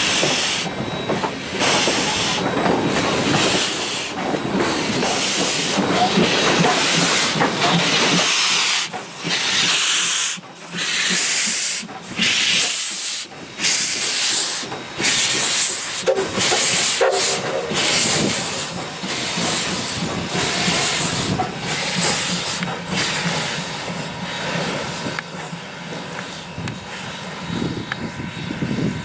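Alco 0-6-0 steam locomotive working, with a run of exhaust chuffs about two a second over a steady hiss of steam. The beats weaken over the last few seconds.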